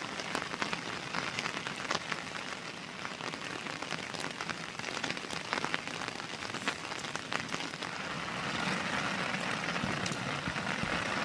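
Rain falling steadily, with many separate drop hits ticking through it. It grows a little louder about eight seconds in.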